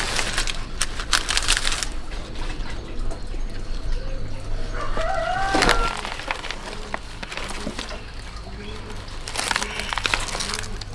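A rooster crows once, about five seconds in, as a single rising call lasting about a second. Crackly rustling and clicks come at the start and again near the end, with a few soft low calls later on.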